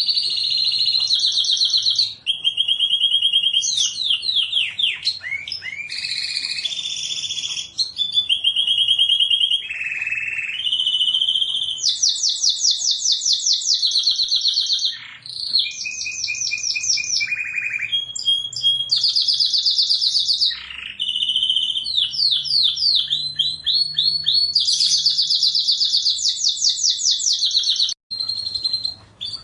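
Domestic canary singing a continuous, loud song of rapid trills and rolls, switching to a new repeated-note phrase every second or two, with a brief break near the end.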